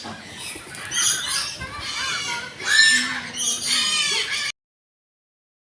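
Birds squawking in a series of harsh calls, then the sound cuts off abruptly about four and a half seconds in.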